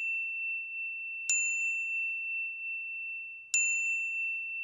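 A high bell-like chime struck twice, about a second in and again near the end. Each strike rings on and slowly fades.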